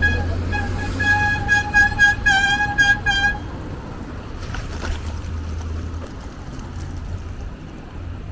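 A car horn honking in a quick run of short blasts for about three seconds, over the low rumble of street traffic.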